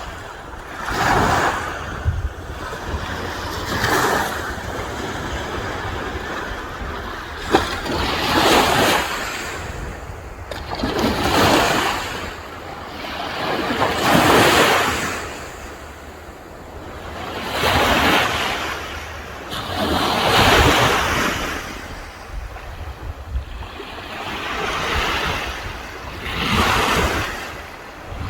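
Sea waves breaking on the shore one after another, a rushing surge about every three seconds that swells and falls away, over a steady low rumble of wind on the microphone.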